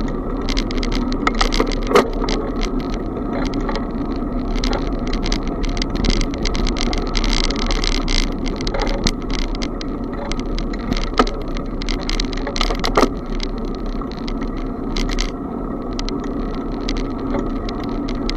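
Riding noise of a moving bicycle heard from a camera on the bike: steady wind rumble on the microphone and tyre noise, with constant rattling clicks and a few sharper knocks, about two seconds in and again twice past the middle.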